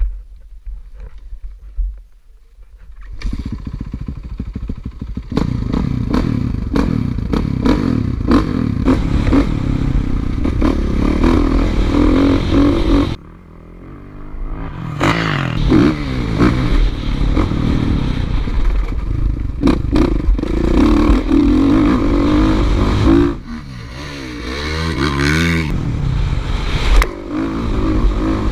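Motocross dirt bike engine running hard, its pitch rising and falling as it revs and changes gear, with rattling and scraping over it. It starts quietly for the first few seconds, breaks off suddenly about halfway through, then builds again, with a quieter stretch of wavering revs near the end.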